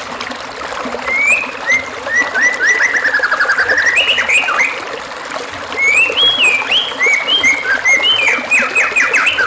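A songbird singing on a murai batu tutor (masteran) recording: phrases of quick downslurred whistled notes and rapid runs, with a short pause near the middle. Steady trickling water runs underneath.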